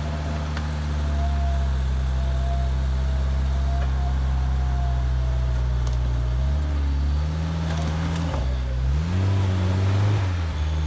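Off-road 4x4's engine running at a steady speed, with a faint whine above it. About six and a half seconds in, the engine revs rise and fall a few times, as when the vehicle works through mud.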